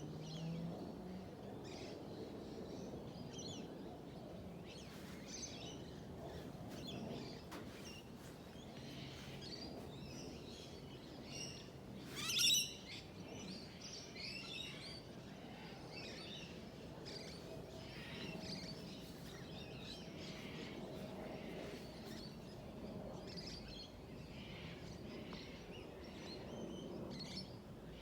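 Small birds chirping again and again over a low, steady background rumble, with one much louder, sharp call about halfway through.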